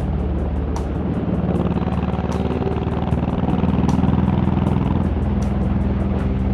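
Honda VTX1800's V-twin engine running steadily while riding at speed, with wind rush, under music with a regular beat.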